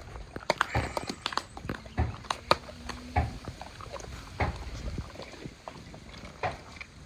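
Leonberger dogs chewing and crunching raw meat and bones, with irregular sharp cracks and snaps.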